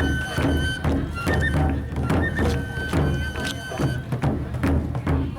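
Japanese taiko drums beating in a steady rhythm, about four strikes a second, under a high held melody with quick trills, in a traditional folk-style piece. The music stops abruptly near the end.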